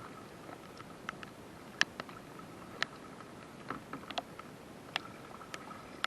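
Irregular small drips and splashes of water around a kayak on a river, about a dozen short sharp ticks over a faint steady rush of moving water.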